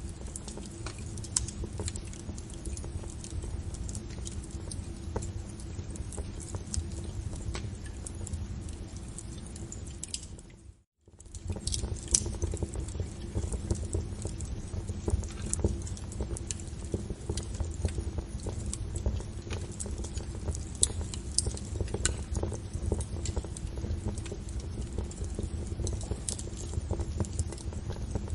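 Wood fire crackling, with many sharp pops and snaps over a low, steady rumble. About eleven seconds in, the sound dips out almost to silence for a moment, then comes back.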